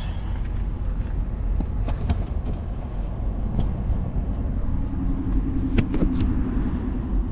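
Steady low rumble of a running vehicle engine, with a few sharp light clicks. A steady hum joins about five seconds in.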